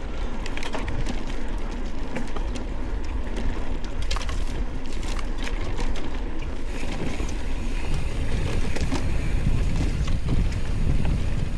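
Wind buffeting the microphone during a ride down a trail, with scattered sharp clicks and rattles. The rumble grows stronger from about eight seconds in as the descent picks up speed.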